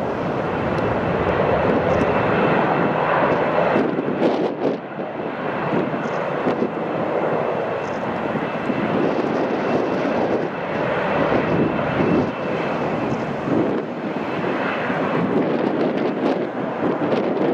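Jet airliner engines running loud and steady, with a thin high whine over the engine noise.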